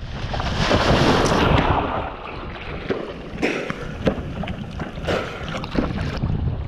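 Wind buffeting the microphone over rushing water while windfoiling, with a louder hiss of water and spray in the first couple of seconds. After that it goes quieter, broken by a few short, sharp splashes or knocks.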